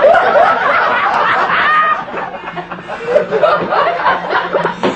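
Several people laughing and snickering together, loudest in the first two seconds and then trailing off into lighter giggles.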